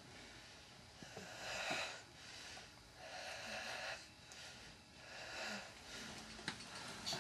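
Faint heavy breathing: a noisy breath swelling and fading every second or two.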